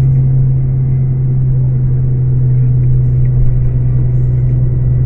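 Scania K410 coach's diesel engine running at a steady speed: a constant deep drone that holds its pitch throughout.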